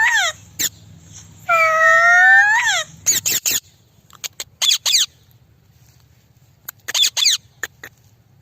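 Indian ringneck parrot calling: one long rising, wavering call about a second and a half in, then short shrill squawks that drop in pitch, mostly in pairs.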